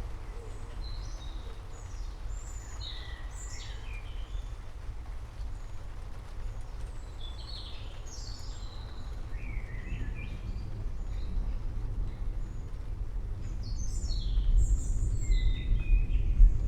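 Low rumble of distant thunder that swells toward the end, with birds chirping in short bursts over it in three separate bouts.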